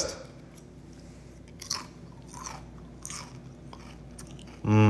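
A person biting into and chewing crispy air-fried pepperoni chips, with a few separate crunches. A short hum of the voice near the end.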